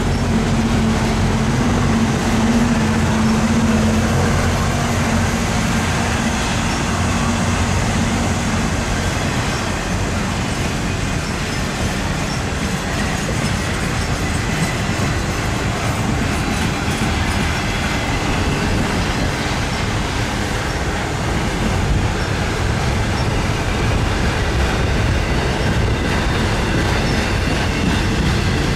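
Double-stack intermodal freight cars rolling past, a steady rumble and clatter of steel wheels on the rails, with a low hum over roughly the first nine seconds.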